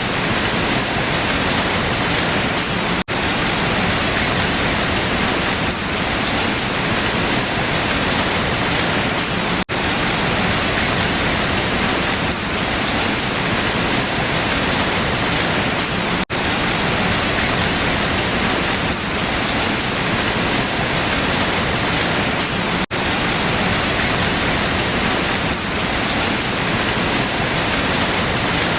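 Steady, dense rain falling on leaves, broken by a momentary dip in loudness about every six and a half seconds.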